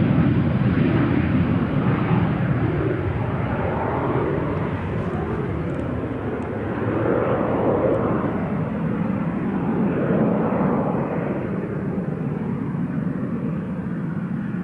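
Twin turbofan engines of a Cessna Citation CJ1 business jet at takeoff power, a steady roar that fades slowly as the jet moves away.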